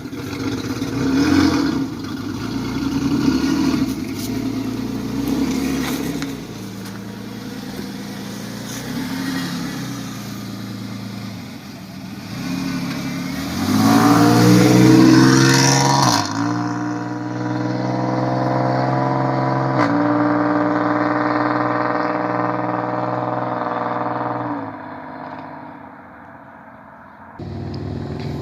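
A Dodge Magnum's V6 running through a Challenger exhaust with the mid muffler deleted and the resonators still on, being revved. It is blipped repeatedly at first; about fourteen seconds in it sweeps up to its loudest, then holds at raised revs for several seconds before dropping back near the end.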